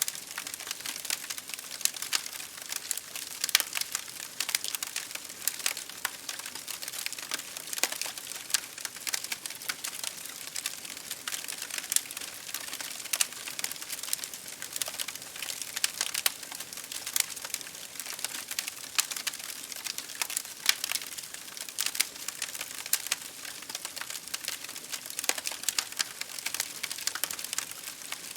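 Wood fire crackling in a fireplace, a dense run of small pops and snaps over a steady hiss of rain on a window pane.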